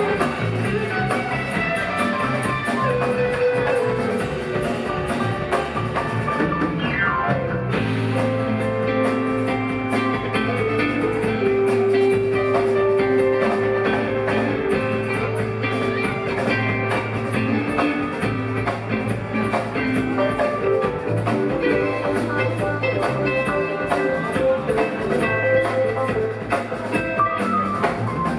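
A live rock band plays an instrumental jam with electric guitar, bass, keyboards and drums. About eight seconds in, a falling slide leads into a steadier groove over a repeating bass line, with a long held note.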